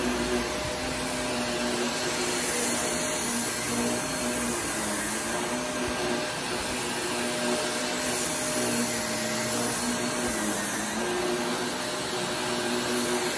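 Vacuum cleaner running steadily as a rug is dry pre-vacuumed to pull out pet hair and dry soil before washing; its motor hum wavers slightly in pitch as the head is pushed over the rug.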